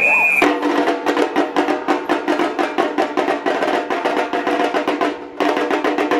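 Samba batucada percussion group playing: a whistle call ends just as the drums and percussion come in together with a fast, dense rhythm. The rhythm breaks off briefly about five seconds in, then picks up again.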